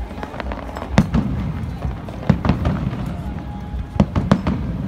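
Aerial fireworks bursting: a string of sharp booms, loudest about a second in, another pair a little past two seconds and again around four seconds, with lighter crackling between them.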